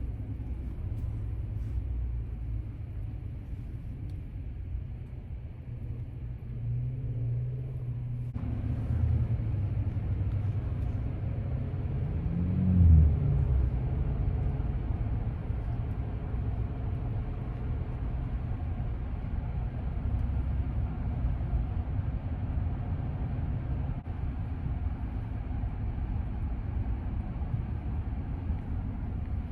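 Dodge Ram pickup truck driving, with a steady low engine and road rumble. About twelve seconds in, a brief louder swell rises and then falls in pitch.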